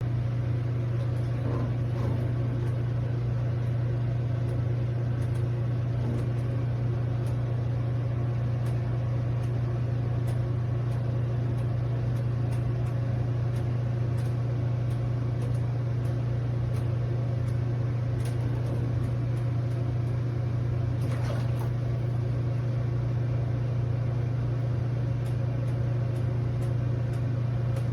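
A steady low-pitched hum at an unchanging level, with faint scattered ticks, cutting off abruptly at the end.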